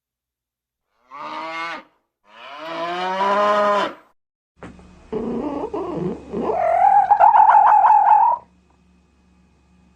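Cow mooing twice, the second moo longer. Then a different animal call, noisy at first and turning into a loud, wavering high-pitched cry that stops suddenly.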